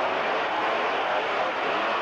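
Monster truck engine revving, its pitch rising and falling.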